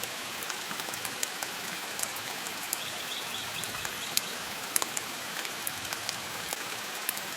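Steady rain mixed with the scattered sharp crackles and pops of a wood fire burning in a fireplace.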